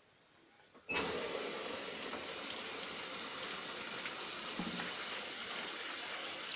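Washing machine filling: about a second in, water suddenly starts rushing into the tub and keeps flowing steadily, as the wash cycle begins.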